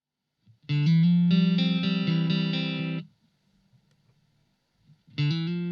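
Electric guitar played through a Blackstar ID:Core Stereo 40 amplifier: a phrase starts about a second in and is cut off sharply after about two seconds, then after a short silence another phrase begins near the end.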